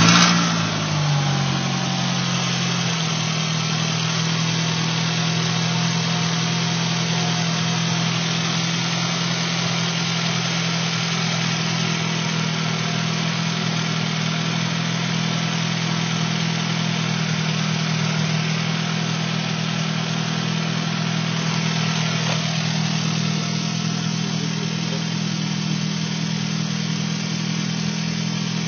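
2002 Nissan Sentra SE-R Spec V's 2.5-litre four-cylinder engine, with catless exhaust, idling steadily after its revs settle from start-up in the first few seconds. This is the idle shake the owner describes as almost like a misfire but feeling like a mechanical imbalance.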